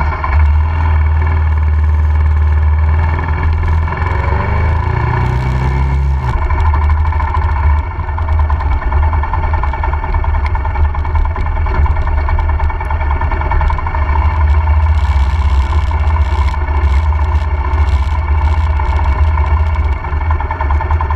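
Royal Enfield Himalayan's single-cylinder engine running as the motorbike is ridden, its pitch rising about four to six seconds in as it accelerates.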